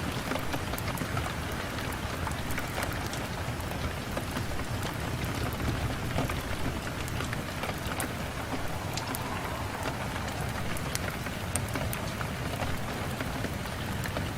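Steady rain falling on a window, an even hiss with scattered sharp ticks throughout.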